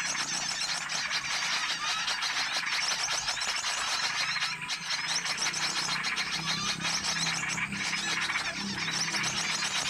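Pikat bird-lure recording: many small songbirds chirping and twittering at once in a dense, noisy chatter of rapid overlapping calls, over a low steady hum.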